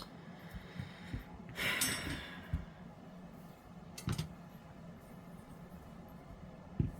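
Faint handling noises from a tray stand being put together with resin trays: a few light knocks and clicks, and a brief breathy rustle about a second and a half in.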